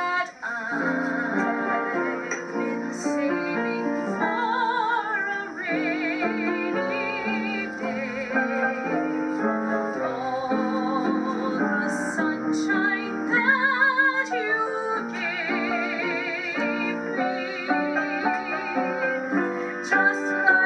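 Music: a slow, sentimental song with piano accompaniment and a melody line carrying strong vibrato.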